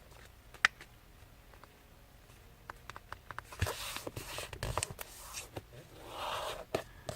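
A thin sheet of paper being handled and folded in half, mostly quiet at first, then rustling, crinkling and scraping from about halfway in as the fold is pressed into a crease, with a few small clicks.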